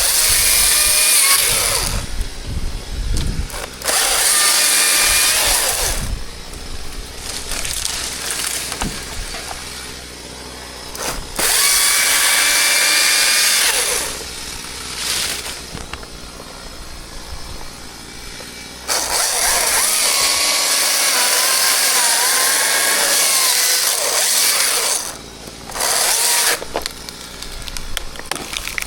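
Chainsaw revving in repeated bursts while cutting wood, dropping back to a quieter idle between cuts. There are about five bursts, the longest about six seconds, near the middle.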